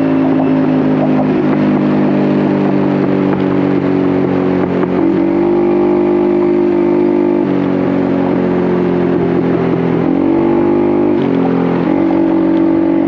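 Honda Navi's small single-cylinder four-stroke engine running under throttle through a Vance & Hines aftermarket exhaust. Its pitch mostly holds steady, eases down about seven and a half seconds in, then dips briefly around ten seconds and comes back up.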